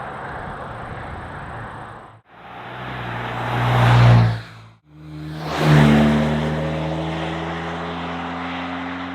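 Exhaust note of a GM Colorado or Canyon pickup's 2.7-liter turbocharged four-cylinder through a Flowmaster American Thunder stainless steel cat-back, in three short clips with sudden cuts between them. A steady driving sound, then a swell to a loud peak about four seconds in that falls away, then a loud pull whose engine note climbs slightly and holds.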